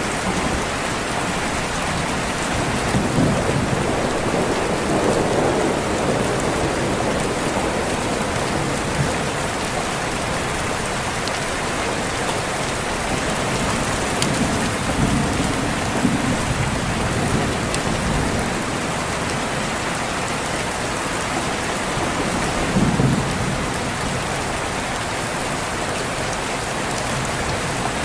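Steady rain with low rumbles of thunder swelling up a few times: once a few seconds in, again about halfway, and briefly near the end.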